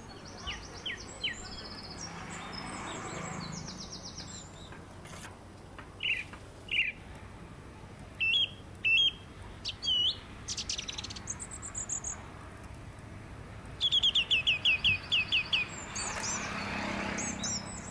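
Several small birds singing and calling: scattered sharp chirps and whistled notes, with a quick run of about nine falling notes near the end. A soft rushing noise swells and fades twice underneath.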